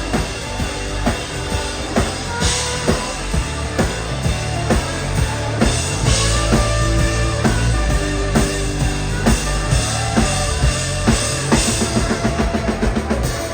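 Live band playing an instrumental passage: a drum kit with bass drum and snare keeps a steady beat under bass and other pitched instruments.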